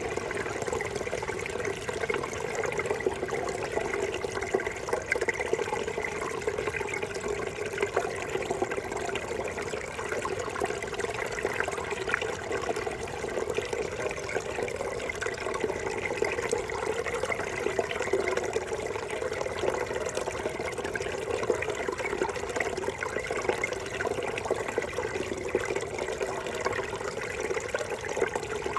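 Small brook babbling steadily over stones, a continuous busy splashing and gurgling.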